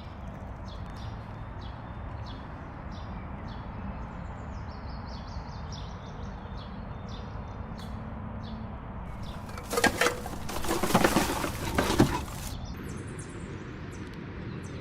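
Outdoor ambience: a steady low background with small birds chirping repeatedly, and a loud, rushing burst of noise lasting about two seconds near the ten-second mark.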